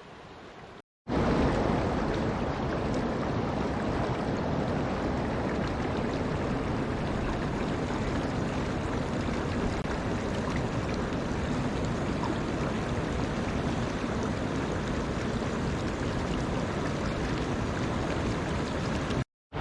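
Steady rush of flowing water, loud and even with no surges, starting after a brief cut to silence about a second in.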